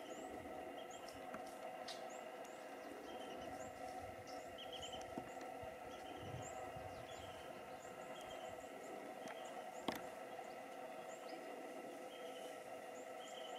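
Faint outdoor ambience of short, high bird chirps repeating every second or so over a steady drone. There is a sharp click about ten seconds in.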